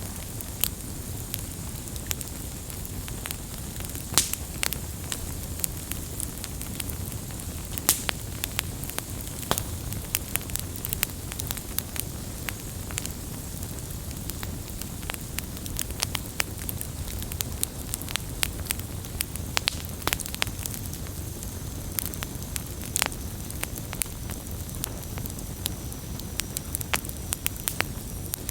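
Wood campfire burning with frequent irregular crackles and pops, a few sharper snaps standing out, over a steady low rumble of the flames.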